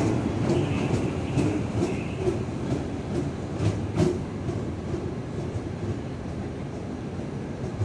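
JR West 221 series electric train moving out along the platform, a low rumble with its wheels clicking over rail joints about twice a second. The sound fades as the last car goes by, about halfway through.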